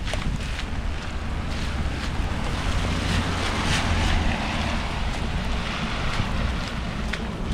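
Wind buffeting the microphone over a steady low rumble, with scattered sharp ticks; the hiss swells briefly near the middle.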